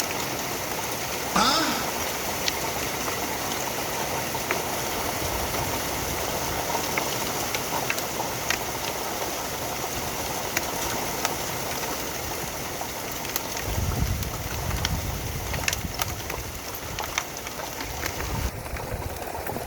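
Hail pelting down, a steady hiss of impacts with many small sharp ticks. A brief rising sound about a second and a half in is the loudest moment, and a low rumble comes in around two-thirds of the way through.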